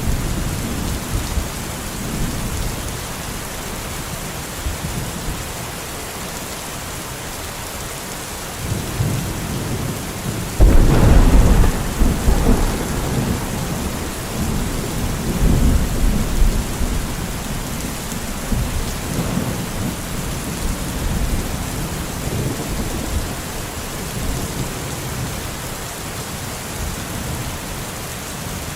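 Steady rain falling, with rolling thunder. A loud thunderclap breaks about ten seconds in and rumbles on for several seconds before fading, and a weaker rumble follows shortly after.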